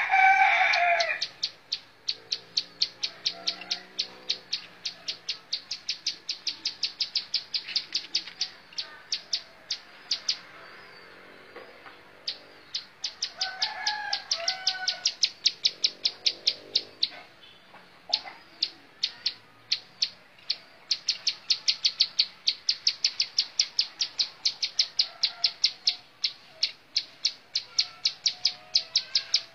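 Ciblek sawah, a small prinia, singing long runs of short sharp repeated notes, about five a second, in three series with brief pauses near ten seconds in and again near seventeen. A louder, lower call sounds at the very start, with fainter lower calls underneath in places.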